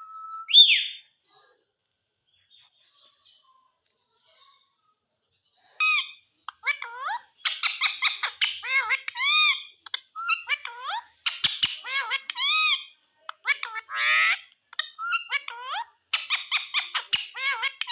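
Indian ringneck parakeet calling: one sharp squawk about half a second in, a few quiet seconds, then a long rapid run of short chirping, chattering calls.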